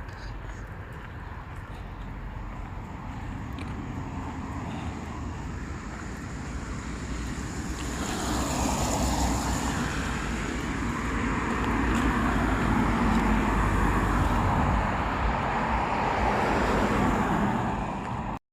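Road traffic noise, a steady rush of passing vehicles that grows louder about halfway through, then cuts off abruptly near the end.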